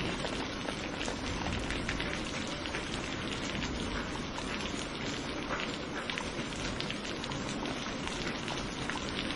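Steady heavy rain falling, an even hiss with fine patter of individual drops.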